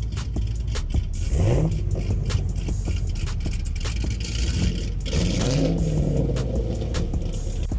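Car engines revving as Chevrolet Camaros pull away, over a steady low engine rumble. The pitch rises sharply about a second and a half in, and rises and holds again for about a second and a half from around five seconds in.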